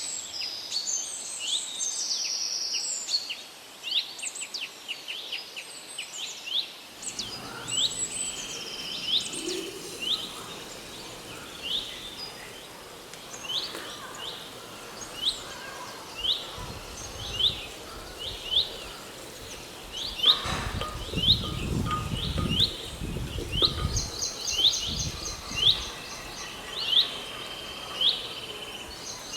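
Small birds chirping: a long run of short, rising chirps repeated about once a second, with busier chattering in the first few seconds. A low rumble comes in about two-thirds of the way through and lasts a few seconds.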